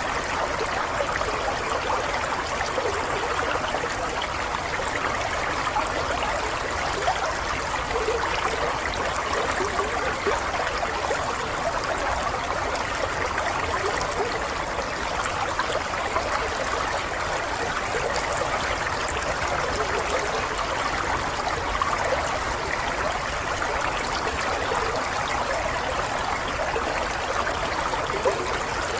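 Running water, like a small stream flowing over stones, a steady babble with small splashes and trickles.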